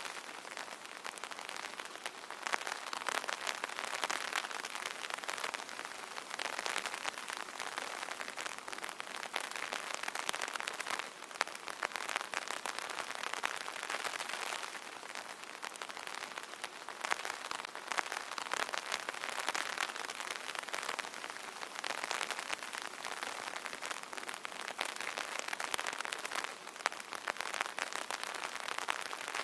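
Light rain pattering on an umbrella canopy: a dense spatter of drops that grows heavier and lighter every few seconds.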